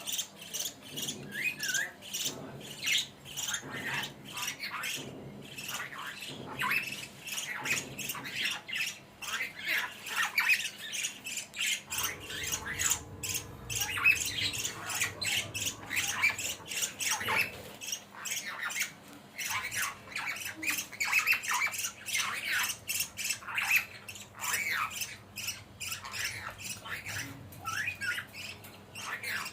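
Pet lory parrot squawking and chattering: a continuous string of short, high calls several times a second.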